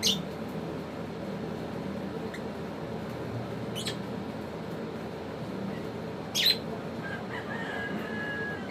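African lovebirds giving short, shrill chirps: three of them a few seconds apart, the third the loudest, then a fainter drawn-out call near the end, over steady low background noise.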